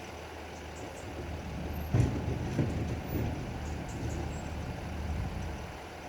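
A road vehicle passes over the level crossing, louder for a few seconds, with a sharp thump about two seconds in and a second one just after, over a steady low engine hum.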